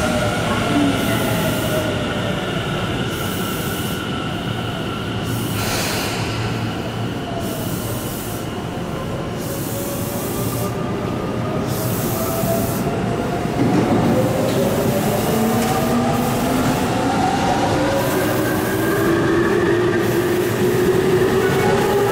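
Tobu 9050-series electric commuter train pulling out of the platform. There is a short hiss about six seconds in, then the motor whine climbs in several rising tones as the train gathers speed past, with its wheels running on the rails.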